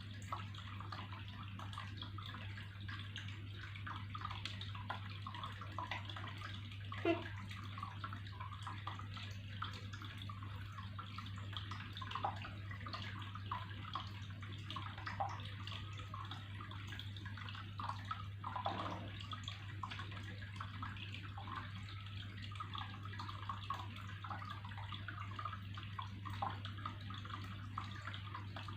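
Water trickling and gurgling, a constant patter of small bubbly plops with a louder plop twice, over a steady low hum.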